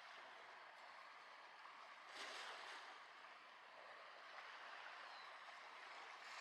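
Faint, steady outdoor hiss that swells briefly about two seconds in.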